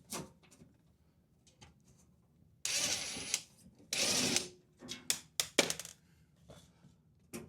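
A power screwdriver runs in two short bursts, driving the screws back into a refrigerator's rear cover, followed by a few light clicks.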